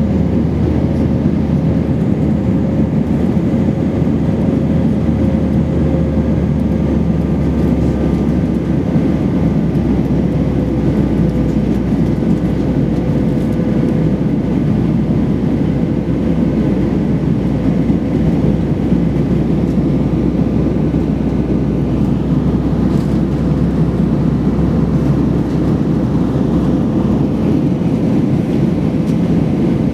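Airbus A320's IAE V2500 jet engines and airflow heard from inside the passenger cabin: a steady, loud rumble with a constant whining tone over it.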